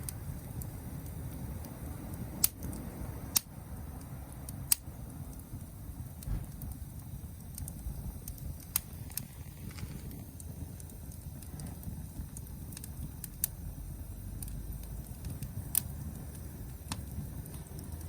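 Campfire burning, crackling with scattered sharp pops over a steady low rumble.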